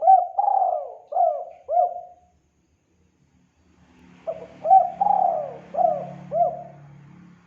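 Spotted dove (tekukur) cooing: a phrase of about four hooked coos that ends about two seconds in, then after a pause a second phrase of about five coos.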